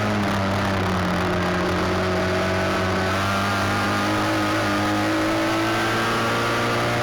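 Midget race car engine running at speed on a paved oval, its pitch rising and falling slowly as the car goes through the turns and down the straights.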